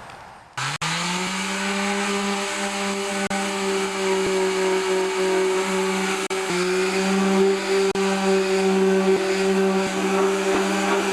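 Electric sander switched on about half a second in, spinning up briefly and then running steadily while sanding paint edges on the tractor's sheet metal.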